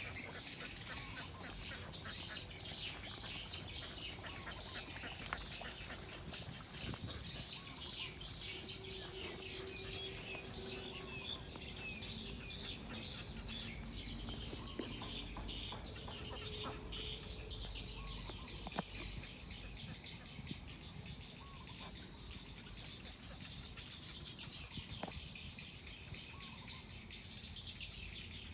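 Many small birds chirping rapidly and continuously, high-pitched, with a few short lower calls in the middle.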